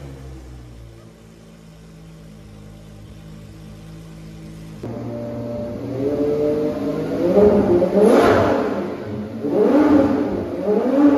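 Ferrari V12 engines running. A Ferrari 599XX Evo idles steadily for about five seconds. After a cut, a Ferrari 812 Competizione idles and is revved in several short blips, each rising and falling, which are the loudest sounds.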